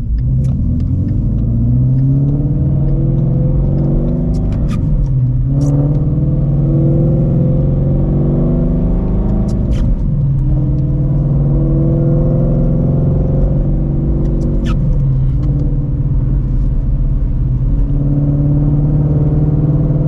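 2016 Shelby GT350's 5.2-litre Voodoo flat-plane-crank V8, breathing through long-tube headers, an X-pipe and a Borla cat-back exhaust, accelerating up through the gears. The engine note climbs, then drops at three upshifts about 5, 10 and 15 seconds in, with a short click at each shift. After the last shift it runs at a steady cruise.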